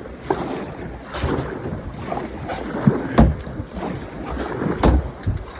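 Kayak on creek water, with wind buffeting the microphone and a few dull thumps, two close together about three seconds in and another near the end.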